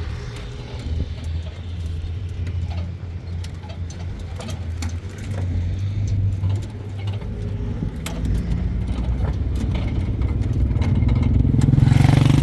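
An engine running steadily at low speed, with scattered clicks and knocks over it; it grows louder near the end.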